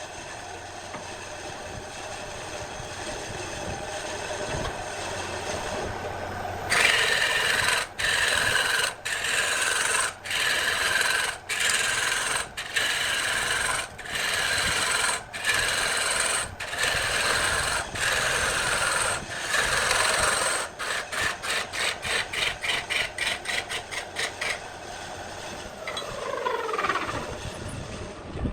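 A wood lathe runs with a tool rasping against the spinning wood. It starts steady, then comes in repeated strokes about two-thirds of a second apart, then quicker, shorter strokes. Near the end a falling pitch is heard as the lathe winds down.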